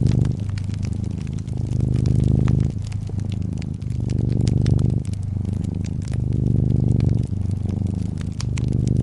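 Domestic cat purring close up, a low rumble that swells and eases about once a second with each breath in and out, over the light snapping and popping of a wood fire crackling.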